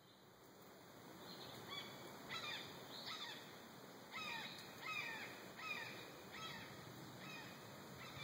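A bird calling faintly in the forest: a series of short notes, each sweeping down in pitch, repeated a little faster than once a second, starting about two seconds in.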